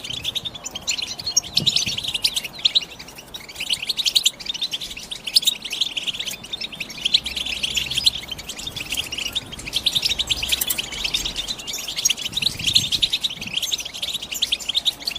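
European goldfinch singing: a long run of fast, twittering chirps and trills, broken only by brief pauses.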